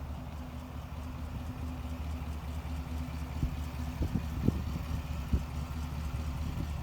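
2024 GMC Sierra AT4X pickup's engine idling with a steady low hum, with a few brief low thumps near the middle.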